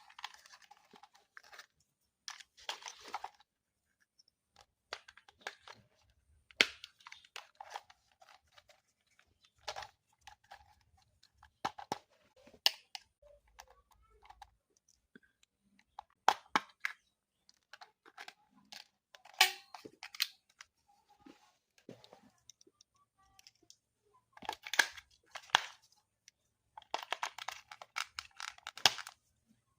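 Toy packaging and parts being handled: scattered sharp clicks and short bursts of crinkling and tearing, with a longer, denser rustle near the end.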